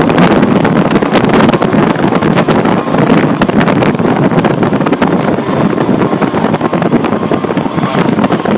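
Fire truck on the move: loud, steady engine and road noise with constant rattling and wind buffeting the microphone.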